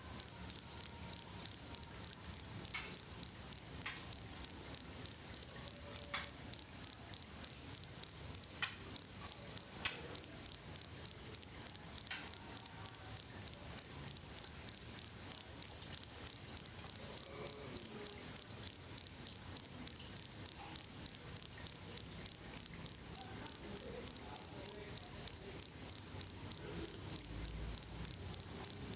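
Cricket chirping steadily in a high, even pulse, about three to four chirps a second.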